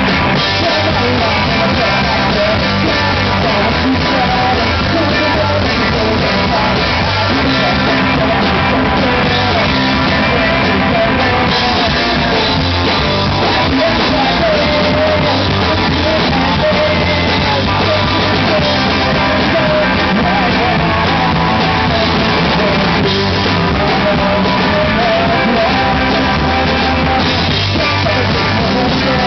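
A rock band playing live, loud and continuous: distorted electric guitars, bass and drums, with a singer's voice.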